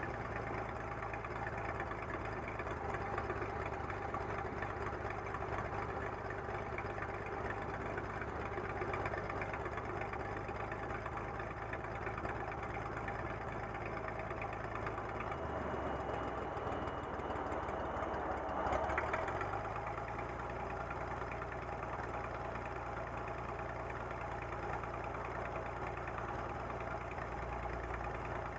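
Light aircraft's piston engine running at low power, idling as the plane rolls off the runway after landing, heard from inside the cabin. The engine note shifts briefly about two-thirds of the way through, then settles again.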